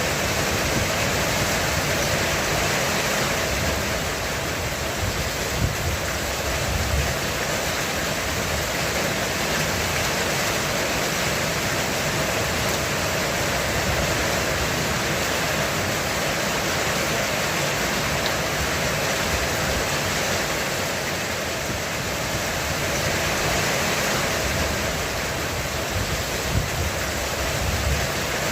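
Heavy rain pounding steadily on a roof, with low swells of distant thunder rumbling about six seconds in and again near the end.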